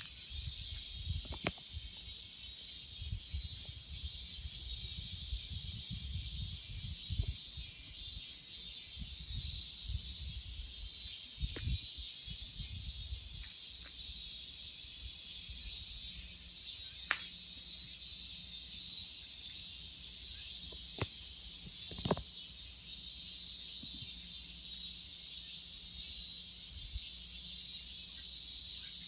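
Steady high-pitched insect chorus, with a low rumble underneath and a few short clicks scattered through.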